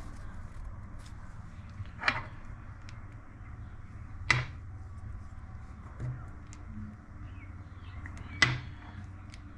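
Sharp metal clicks and knocks from tools and parts being handled on a workbench: three distinct clicks about two, four and eight seconds in and a softer knock near six seconds, over a steady low hum.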